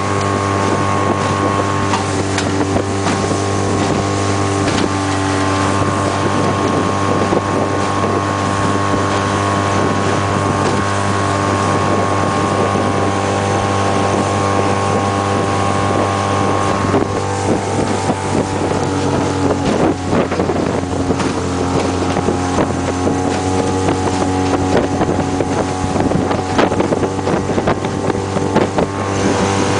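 2006 Suzuki 15 hp four-stroke outboard motor running steadily as the boat moves under way, with wind buffeting the microphone. About two-thirds of the way through, the engine note drops in pitch and then holds steady at the lower note.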